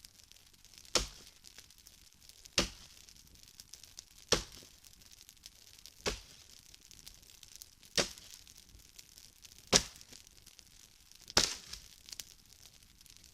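Axe chopping dry wood: seven sharp strikes, a little under two seconds apart.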